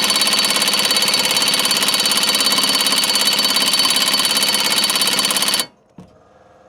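Impact wrench hammering steadily as it tightens a mower blade bolt, cutting off suddenly about five and a half seconds in, followed by a single click.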